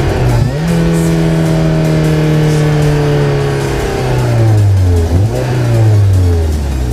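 Naturally aspirated Toyota MR2 SW20's engine through a decat stainless Mongoose exhaust, running loud under way. A quick change in engine speed comes about half a second in and again about five seconds in, and after each the pitch slides slowly down.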